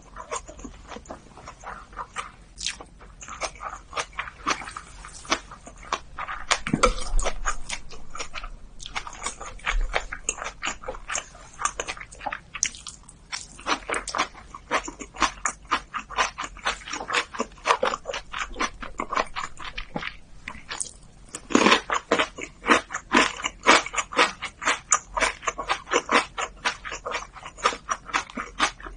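A person eating close to the microphone: a steady run of quick clicking chewing and mouth sounds, thicker in stretches.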